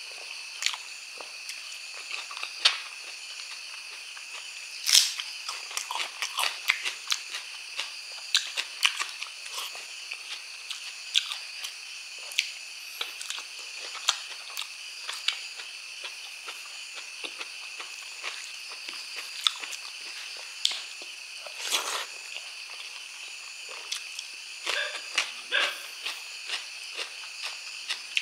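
Close-miked chewing of pork trotter and rice eaten by hand, with many short wet smacks, clicks and crunches at an uneven pace. A steady faint high-pitched tone runs behind.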